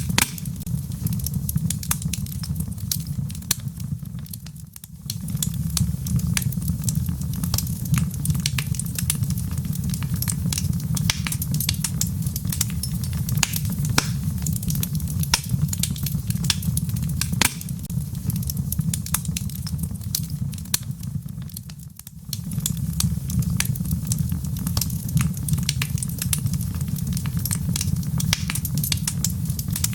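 Wood fire crackling in a fireplace: frequent, irregular sharp pops and snaps over a steady low rumble. The rumble dips briefly twice, about five seconds in and about 22 seconds in.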